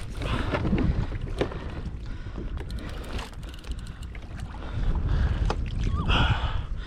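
Water sloshing and splashing against a kayak hull, with wind buffeting the microphone and scattered light knocks. There are two louder splashes, about half a second in and about six seconds in.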